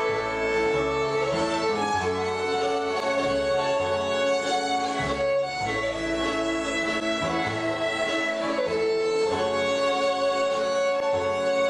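A bluegrass string band playing a slow waltz. The fiddle carries the melody in long held notes, over guitar and changing double bass notes.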